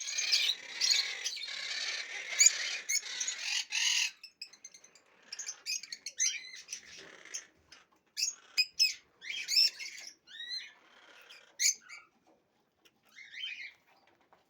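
Small birds chirping: a dense burst of overlapping chirps for the first four seconds, then scattered short calls and quick downward-sweeping notes that thin out near the end.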